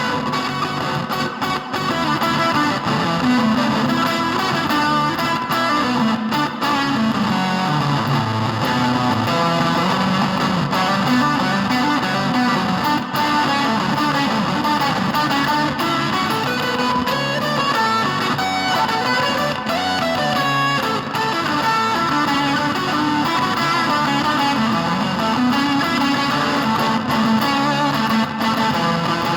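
Electric guitar played through an EarthQuaker Devices Data Corrupter PLL harmonizer pedal, giving a fuzzy, synth-like processed tone with gliding pitches.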